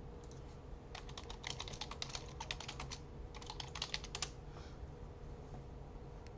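Typing on a computer keyboard: a quick run of keystrokes for about two seconds, a brief pause, then a shorter run of about a second, over a faint steady hum.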